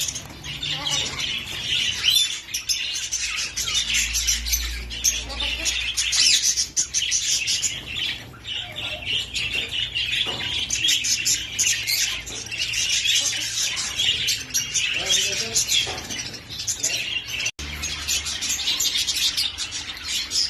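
A crowd of pet lovebirds and parrots chirping and chattering continuously, many short, high calls overlapping.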